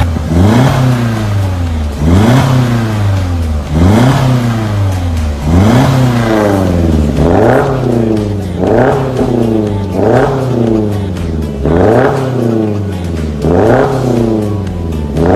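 Subaru XV's flat-four boxer engine blipped repeatedly through an aftermarket cat-back exhaust with a valved muffler: each rev rises quickly and falls away slowly, about every one and a half to two seconds, coming a little quicker near the end.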